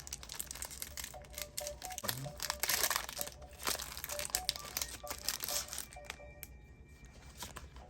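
Foil booster-pack wrapper crinkling in short, irregular rustles as it is handled.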